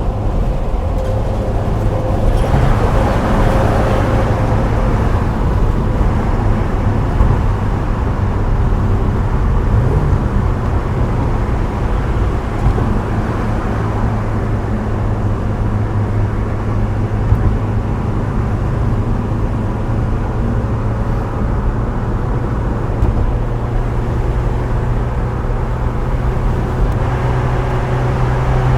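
Subaru Impreza WRX STI Spec C's turbocharged boxer four running through an aftermarket A-RM exhaust, cruising steadily at expressway speed under a constant wash of tyre and road noise. The engine note climbs a little near the end as the revs rise.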